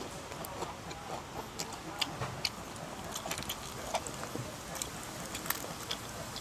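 Two people chewing rice-paper rolls of crispy fried fish up close to the microphone: a string of irregular crunches and wet mouth clicks over a steady background hiss.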